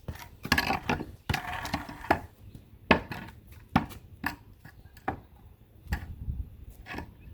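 Wooden knocks and scrapes from a homemade lift made of screwed-together 2x8 boards and a 1-inch metal pipe as it is handled and set in place: about a dozen sharp, irregular knocks, with scraping in the first couple of seconds.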